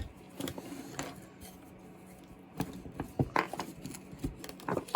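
Scattered light clicks and knocks of hand tools and small parts being handled while a chainsaw is taken apart, quieter for a moment about a second in and busier again in the second half.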